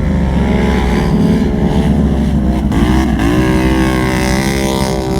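ATV engine running under throttle while wading through deep water. Its pitch sags and wavers about halfway through, then climbs and holds steady.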